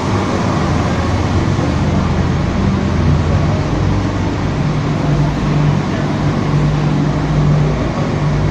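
Machinery running steadily with a low, droning hum whose pitch shifts slightly every second or two.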